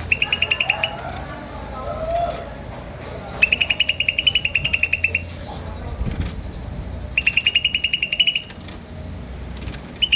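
A bird repeating bursts of rapid, evenly spaced high chirps, about ten a second for one to two seconds each, three times a few seconds apart. Softer, lower gliding notes come in between the bursts.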